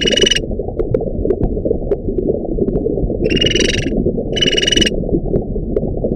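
Short, high-pitched animal calls in pairs about a second apart, over a continuous low rumble.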